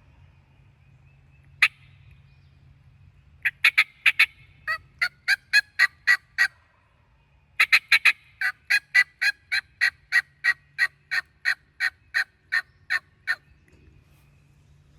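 Turkey yelping: a series of sharp, evenly spaced yelp notes, about two to four a second, broken twice by a quick cluster of fast notes.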